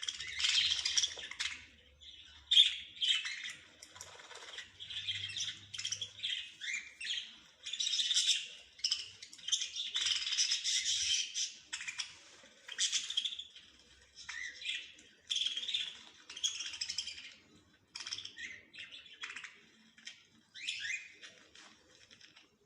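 Small songbirds chirping and twittering in quick runs of short, high notes, one burst after another with brief gaps between.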